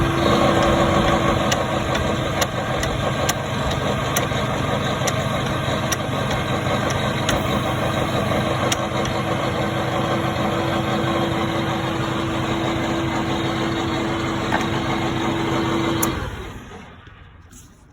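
Toyota forklift engine running steadily with a held tone, then shut off about sixteen seconds in and winding down to quiet.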